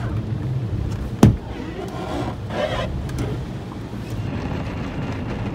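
Low steady vehicle rumble heard from inside a van, with a single sharp thump a little over a second in.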